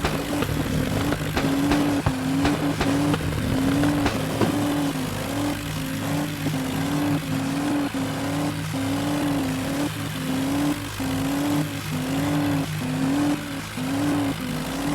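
Mahindra tractor engines running under load, mixed with loud DJ music carrying a warbling tone that repeats about one and a half times a second, with scattered sharp clicks.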